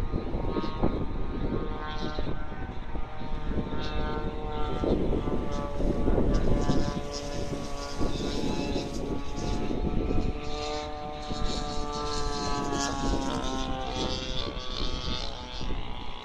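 Strong wind buffeting the microphone in gusts. Over it runs a steady droning hum made of several pitches, like a motor, which drops in pitch about two thirds of the way through.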